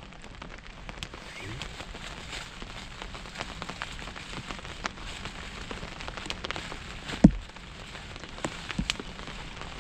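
Steady rain falling, with scattered sharp drip clicks, and a single loud low thump about seven seconds in.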